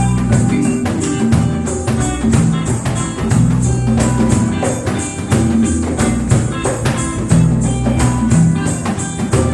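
Live band playing an instrumental reggae passage, with a steady beat of evenly spaced percussion strikes over a moving bass line and pitched instrument notes.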